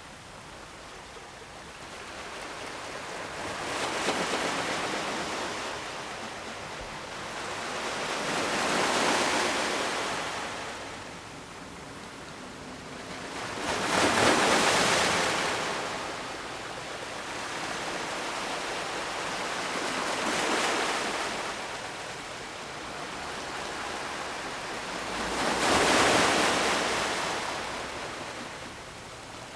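Ocean surf: waves washing in one after another, the hiss swelling and fading about every five or six seconds. The loudest waves come about halfway through and near the end.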